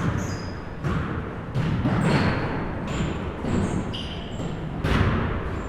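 Basketball bouncing on a hard gym floor, several irregular bounces that ring in the hall, mixed with short high squeaks and a low murmur of voices.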